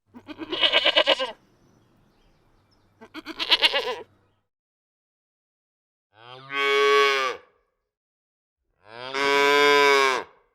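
Farm animals calling four times: two short calls with a fast quaver, then two longer, smooth calls that rise and fall in pitch.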